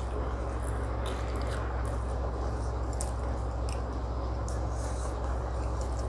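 Close-up chewing and wet mouth sounds of someone eating, a scatter of short smacks and clicks over a steady low hum.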